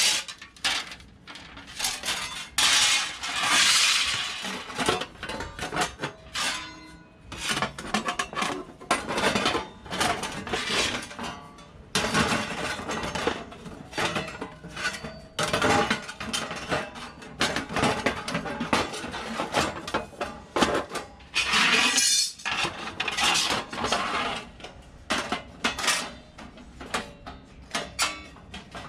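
Stainless steel plates of a knock-down fire pit clinking, clattering and scraping against each other as they are handled, in irregular bursts.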